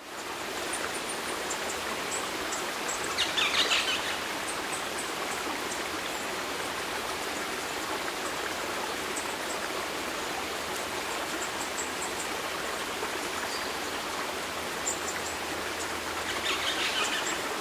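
Steady rush of running water, like a stream, with faint high bird chirps now and then. A brief louder burst comes about three seconds in and again near the end.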